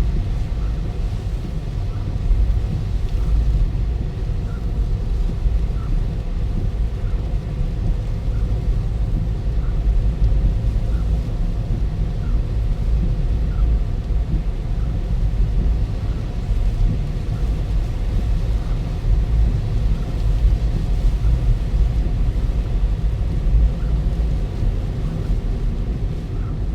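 Steady low rumble of a car on the move, likely the Toyota Ractis's road and wind noise, with faint light ticks about every second.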